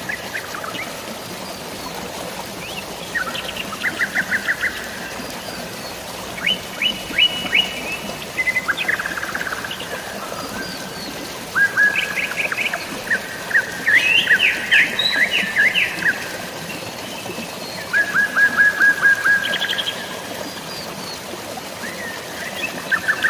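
Songbirds singing in short phrases of rapid, evenly repeated notes, a few seconds apart and overlapping in the middle, over a steady hiss of rain and running water.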